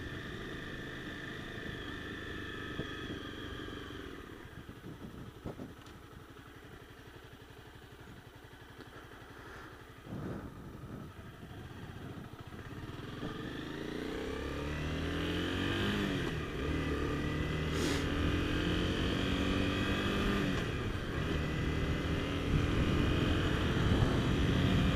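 Honda CBR250R single-cylinder motorcycle engine running at low revs for several seconds, then accelerating hard with a rising pitch that drops and climbs again at gear changes, getting louder toward the end.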